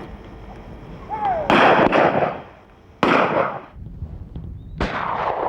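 Shotguns firing at driven birds, about four shots spread over a few seconds, each ringing out with a long echo through the woods.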